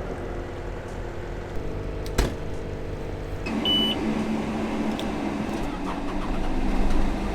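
An engine running steadily, with a sharp click about two seconds in; about halfway a louder, steadier hum takes over and a short high beep sounds.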